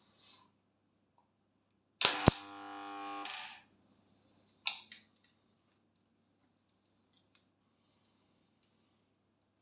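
Homemade spot welder built from a microwave oven transformer firing a weld: a sudden loud crack as the current hits, then the transformer's buzzing hum for about a second and a half. About a second later comes another sharp snap, then a few faint ticks.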